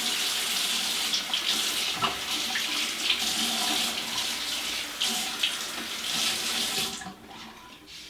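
Water running from a tap, splashing over a strip of paper drywall tape held under it to saturate it; the tap shuts off about seven seconds in.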